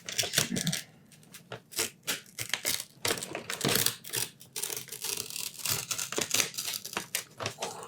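Paper takeout food packaging being ripped open and crumpled by hand: a run of crackling tears and crinkles in uneven clusters with short pauses between.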